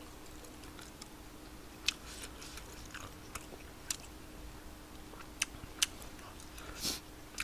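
Quiet close-mic eating of spicy tteokbokki: chewing with about half a dozen short sharp wet mouth clicks scattered through, over a faint steady hum.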